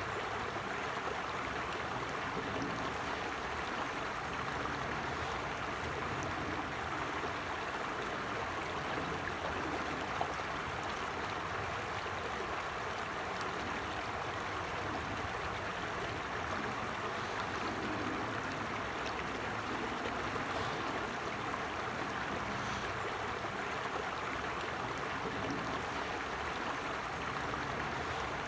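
A small forest stream running steadily over stones, a continuous rushing and gurgling of flowing water.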